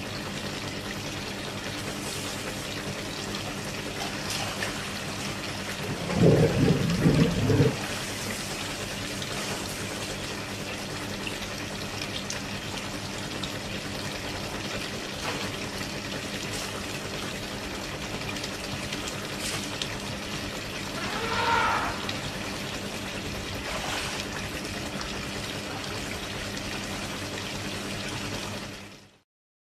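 Steady splashing and pouring of water as African elephants drink from a swimming pool, drawing water up with their trunks. About six seconds in there is a loud low rumbling for about a second and a half, and later a short wavering call.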